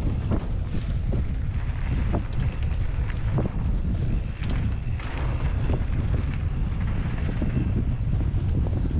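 Wind buffeting the microphone while a mountain bike is ridden over a rough dirt trail, with scattered clicks, knocks and rattles from the bike.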